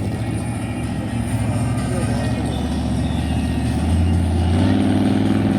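Vintage 4x4 truck's engine running steadily under load, its note stepping up and getting louder about four and a half seconds in.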